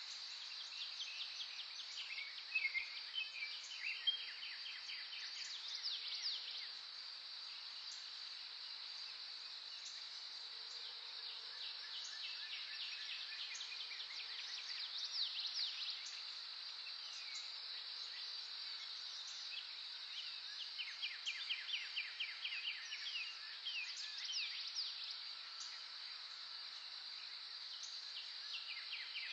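Songbirds singing in bursts of fast repeated, trilled notes over a steady high-pitched insect drone.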